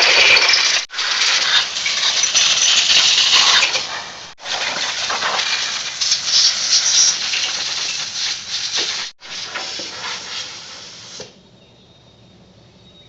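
Compressed-air blow gun blasting water off a freshly pressure-washed, bare Ford 260 small-block engine block, in four long hissing bursts with short breaks between them. The last burst is weaker as the compressor's tank pressure runs down.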